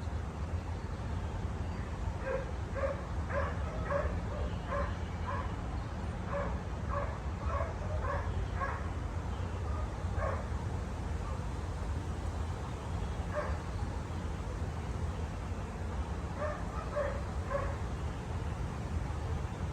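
A dog barking in short, repeated yips, a dense run in the first half and a few more later.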